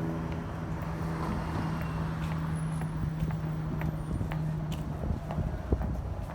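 Busy city street sound: a steady low hum of an idling or slow-moving vehicle, which drops away about five seconds in, with scattered footsteps clicking on the pavement.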